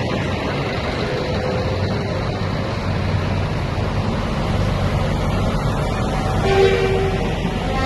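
Heavy trucks' diesel engines running as a convoy drives past, with a short horn blast about six and a half seconds in.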